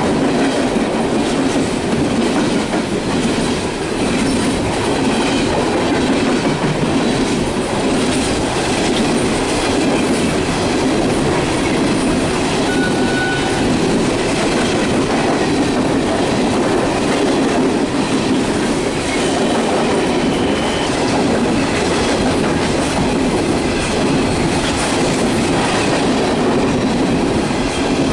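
Empty steel coal cars of a freight train rolling past close by: a steady noise of wheels running on the rails that stays level throughout.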